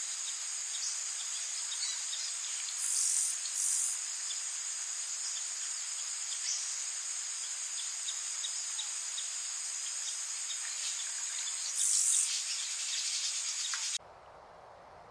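A steady, high-pitched insect chorus buzzing without a break, swelling louder briefly twice, then cutting off abruptly near the end.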